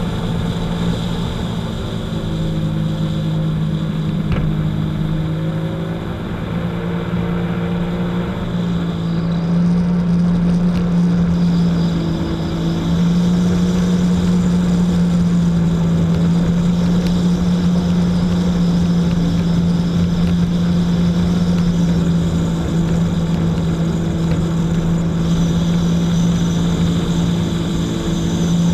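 Jet ski engine running steadily. Its pitch and loudness step up a little about ten seconds in, then hold at the higher speed.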